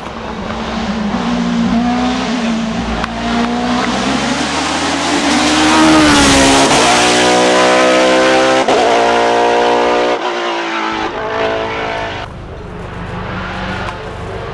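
Hill climb race car accelerating hard past the listener. The engine climbs in pitch with a couple of quick upshifts and is loudest around the middle, then drops in pitch and fades as it moves away.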